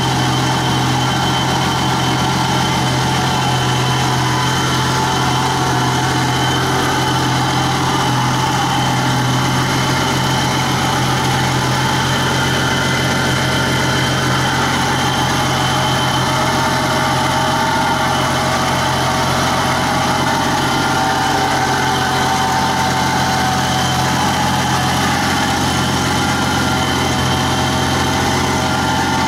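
A 1969 Chevrolet Camaro's straight-six engine idling steadily, with no revving.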